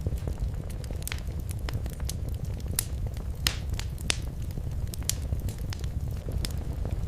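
Wood fire crackling in a fireplace: irregular sharp pops and snaps, a few louder ones about three and a half and four seconds in, over a steady low rumble of the flames.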